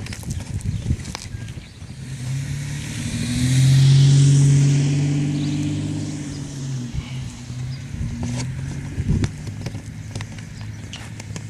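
A car driving past: its engine hum and tyre noise build up, are loudest about four seconds in, and fade away by about eight seconds.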